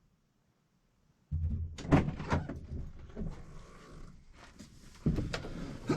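Several sharp knocks and clunks over a low rumble, starting about a second in.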